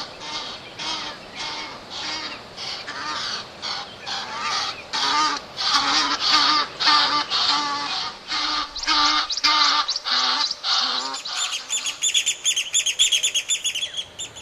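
Egyptian geese honking, a run of harsh repeated calls about two a second that grows louder midway. For the last couple of seconds a rapid series of high, thin chirps from another bird overlaps the honking.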